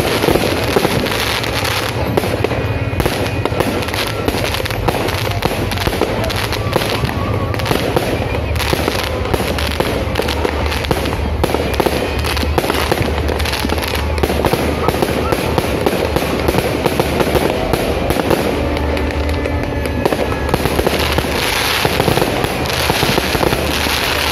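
Aerial fireworks display: a rapid, continuous run of bangs and crackles from bursting shells.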